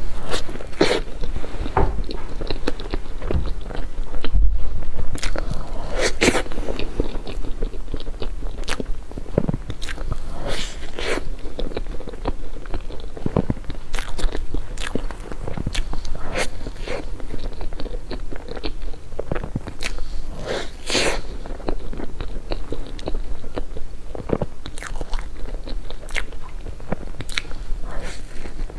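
Close-miked eating sounds: a person biting and chewing a layered cake, with many short, sharp crunchy bites spread through the chewing.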